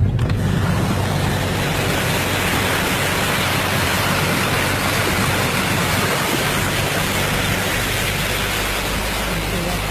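Fast-flowing floodwater rushing, a loud steady noise that starts abruptly and holds unchanged.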